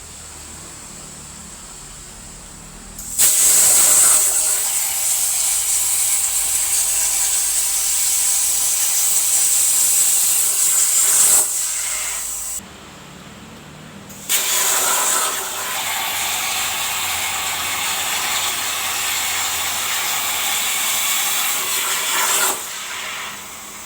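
CNC plasma torch arc at about 35 amps, hissing steadily as it carves a pattern into metal. It strikes about three seconds in, goes out near the middle for a couple of seconds while the torch moves, then runs again and stops a second or so before the end.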